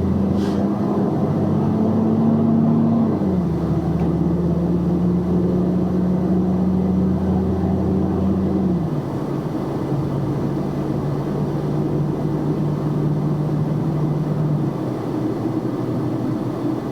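Box truck's engine running while driving, with steady road noise. The engine drone steps down in pitch about three seconds in and again about nine seconds in, then fades out after about fifteen seconds.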